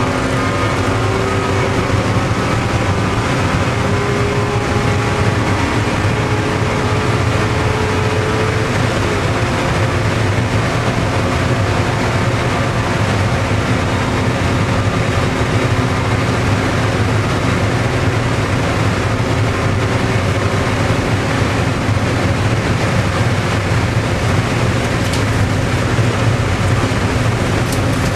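Car engine running at high, steady revs, with heavy wind and road noise, heard from inside the cabin at track speed.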